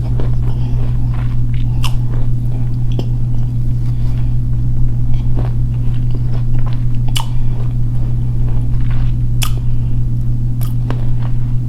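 Edible clay being bitten and chewed close to the microphone, with sharp crunches every second or two, over a steady low hum.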